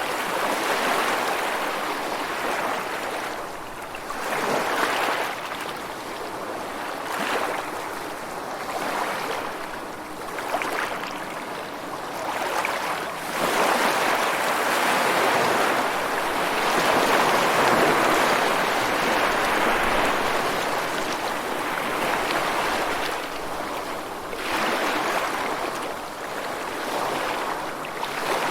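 Rushing water: a steady wash of noise that swells and eases every few seconds, with one long surge in the middle.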